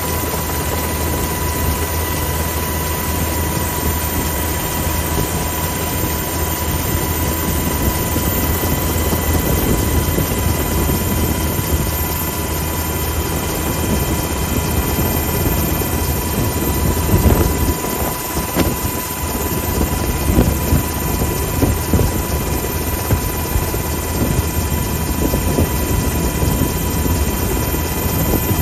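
Steady helicopter engine and rotor noise with a constant high whine; from about halfway through it turns uneven, with irregular louder gusts.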